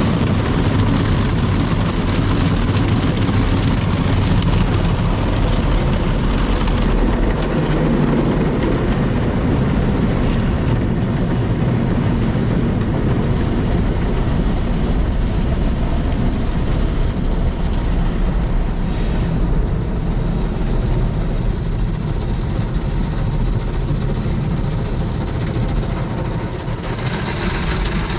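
Daifuku Fabrica automatic car wash machine running over a car: a steady, dense wash noise, heaviest in the low end, that turns hissier near the end.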